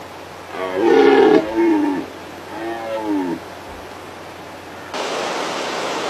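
Red deer stags roaring in the autumn rut: a loud roar about a second in, then a shorter call that rises and falls in pitch around three seconds in. A steady hiss starts about a second before the end.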